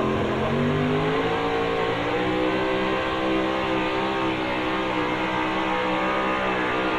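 Gas-class pulling truck's engine running hard and steady under load. Its pitch rises slightly about two seconds in, then holds.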